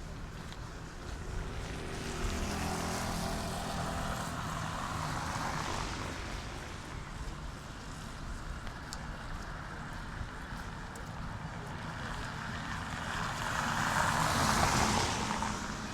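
Two road vehicles passing along the street: the first, with a low engine hum, a few seconds in, and a second, louder pass of tyre and engine noise near the end.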